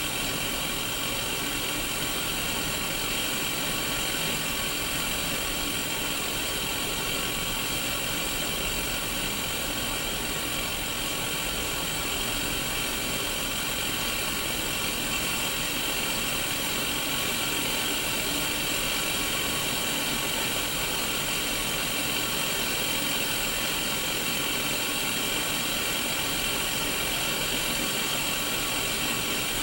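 Steady hiss of white-noise static from the small speaker of a Sony Mega Watchman black-and-white mini CRT TV showing no station.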